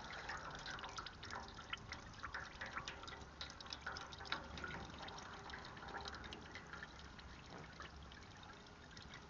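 Hot used engine oil dripping from a loosened spin-on oil filter into a drain pan: a faint, rapid, irregular patter of drops.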